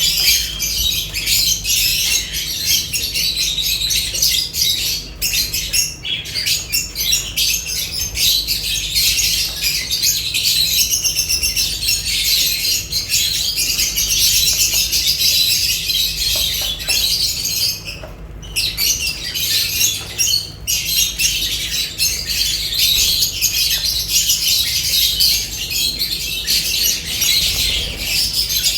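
A flock of lovebirds chattering, with dense, overlapping high chirps and squawks that run on steadily and break off briefly about two-thirds of the way through. A low steady hum lies beneath.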